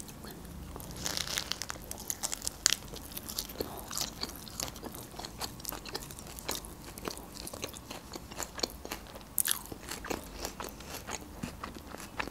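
A person biting and chewing a rolled lahmacun wrap filled with fresh herbs and green onion: many small wet mouth clicks and crunches, with a soft rustle about a second in.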